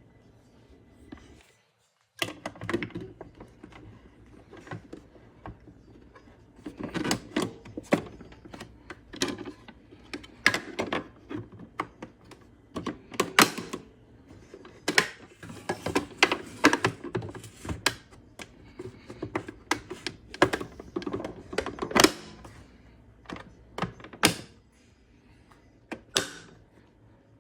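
Irregular hard plastic clicks, knocks and thunks from handling the canister filter's housing as it is closed and its lid latched shut. They start about two seconds in and come in clusters.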